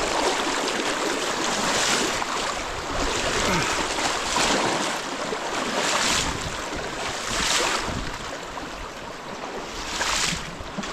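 Rushing creek water, with splashes recurring every second or two as a person wades across the creek over slippery rocks.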